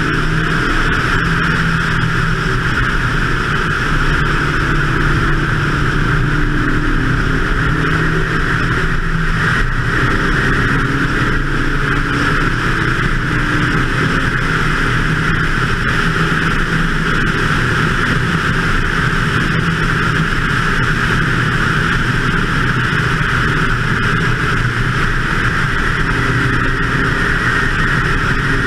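BMW 2002 race car's engine running hard at track speed, its note shifting in pitch several times through the lap. A loud, steady rush of wind on the microphone lies over it.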